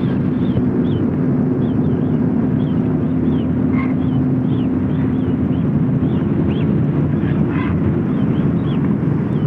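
Small birds chirping in short calls about twice a second, over a loud, steady low rumble with a hum that stops about six seconds in.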